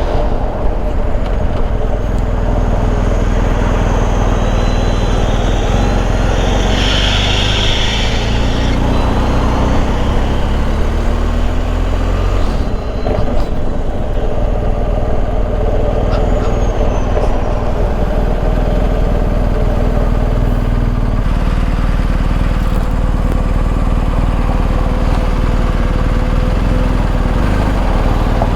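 Riding sound of a BMW R1250 GS Adventure on the road: wind rushing over the rider's microphone over the steady run of the bike's boxer-twin engine, whose pitch rises about ten seconds in as it speeds up.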